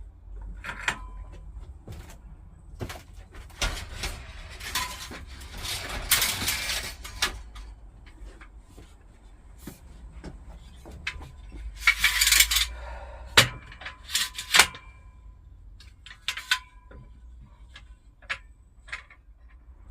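Workshop handling noises during a glue-up: a scattered series of knocks, clicks and clinks of wooden pieces and metal clamps, with a few short scraping rushes around the middle.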